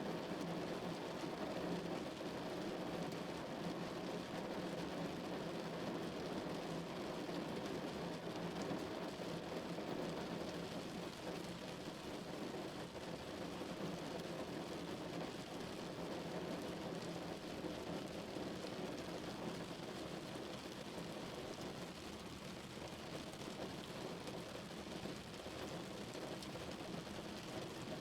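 Steady rain drumming on a car's roof and body, heard from inside the car as a dense, low, even patter.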